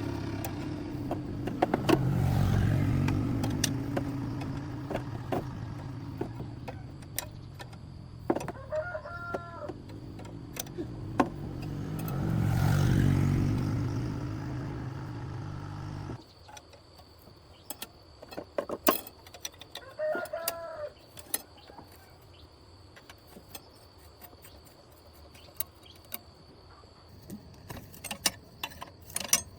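A rooster crowing twice, each crow about a second long. In the first half a low vehicle rumble swells up and fades twice. After an abrupt cut the background is quieter, with scattered light clicks and taps.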